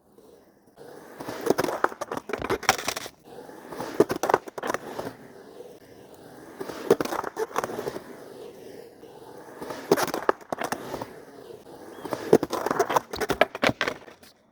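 Skateboard rolling, with sharp clacks of the board and scraping, in about five loud bursts roughly every three seconds.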